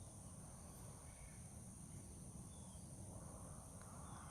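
Faint outdoor ambience: a steady, high-pitched insect chorus over a low background rumble, with a few faint short bird chirps.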